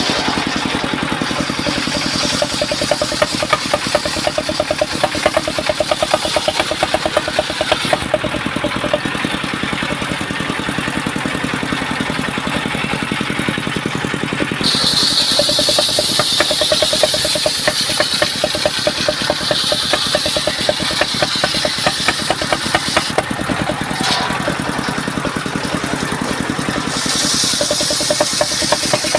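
Sawmill machinery running steadily with a fast, regular knocking beat. About halfway through, a higher hiss joins in; it drops out briefly and comes back near the end.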